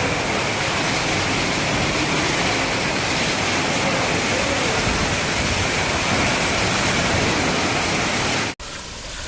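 Thunderstorm downpour: heavy rain and wind make a dense, steady rushing hiss that cuts off suddenly near the end.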